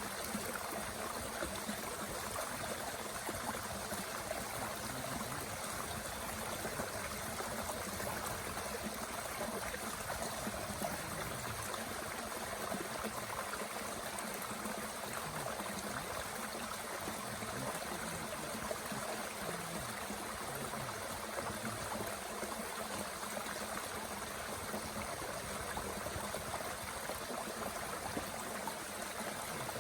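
Mountain stream flowing steadily, a constant even rush of water.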